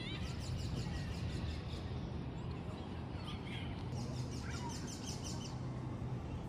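Small birds chirping: a run of quick high notes near the start and another about four seconds in, over a steady low outdoor rumble.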